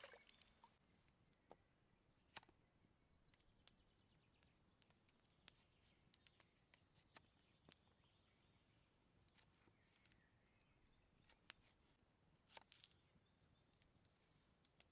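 Near silence: the faint, scattered crackling ticks of an open campfire, with a few faint bird chirps.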